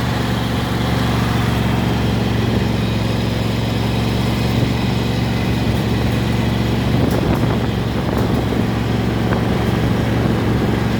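A steady engine drone: an even, unchanging low hum with a rushing noise on top.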